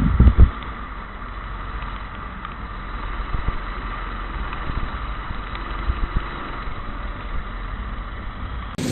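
Go-kart engine running steadily under wind buffeting on the microphone, with heavy low buffets in the first half second. Near the end the sound cuts abruptly to a different, brighter recording.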